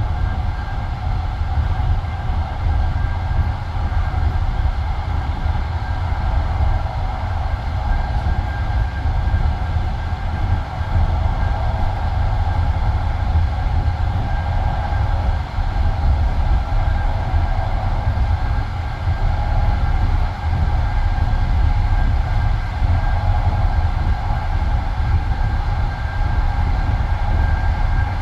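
Passenger train carriage running at speed between stations, heard inside the carriage: a loud, steady rumble of wheels on rails.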